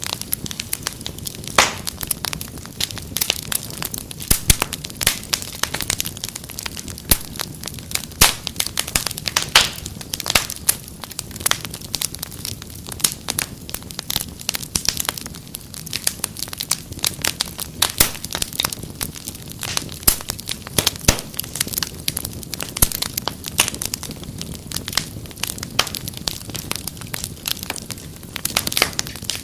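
Wood fire crackling, with frequent sharp snaps and pops at irregular intervals over a steady low hiss.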